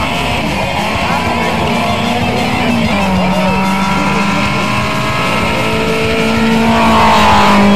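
Rally car engine running at high revs as the car approaches, getting louder with rising pitch near the end, with guitar music underneath.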